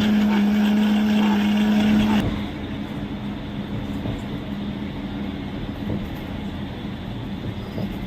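Road traffic and vehicle engine noise. A loud steady low tone holds for the first two seconds and cuts off abruptly, leaving an even drone of engine and road noise.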